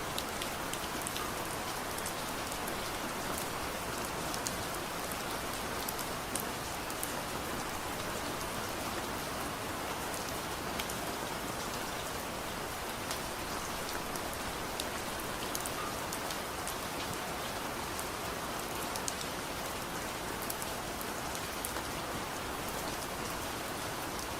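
Steady soft rain falling, an even hiss with scattered small sharp clicks throughout.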